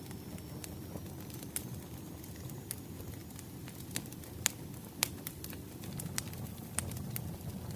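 Wood fire crackling: a steady low rumble of burning logs with scattered sharp pops and snaps, the two loudest about halfway through.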